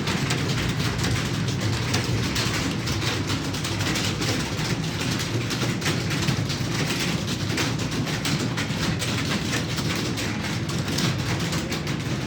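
Many computer keyboards being typed on at once: a dense, steady clatter of overlapping key clicks.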